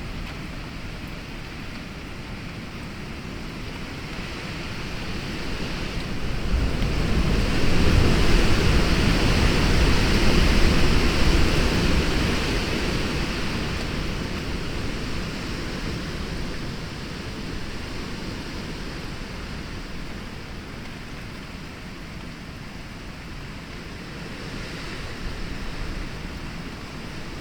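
Storm rain falling steadily with gusting wind. A strong gust builds about a quarter of the way in, rumbles at its height for a few seconds, then dies back down to the steady rain.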